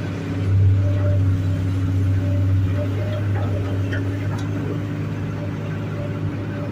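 Komatsu hydraulic excavator's diesel engine running steadily, with a higher tone that comes and goes and a few light clicks.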